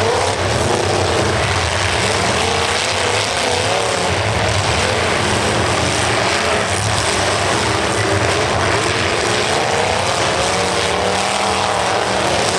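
Several demolition derby cars' engines running and revving at once, their pitches wavering up and down over a constant loud din of engine and exhaust noise.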